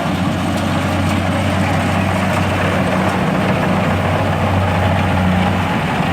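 Engine of a heavy farm machine running steadily at an even speed, a low steady hum.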